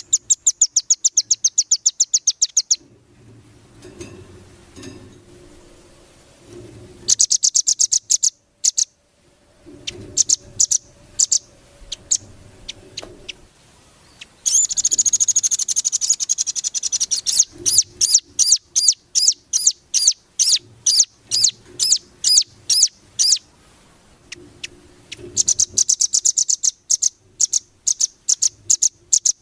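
A songbird singing in bursts: fast high-pitched trills alternating with runs of sharp repeated notes, about three or four a second, with short pauses between phrases.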